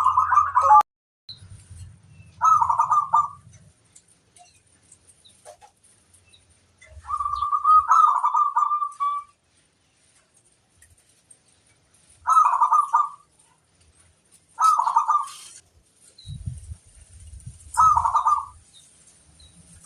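Zebra dove (perkutut) cooing its warbling song in six separate phrases a few seconds apart, one of them longer, about seven seconds in.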